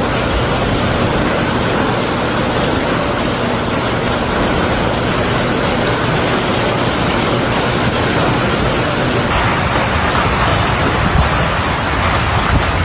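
Heavy storm rain and wind: a loud, steady rushing noise with no breaks.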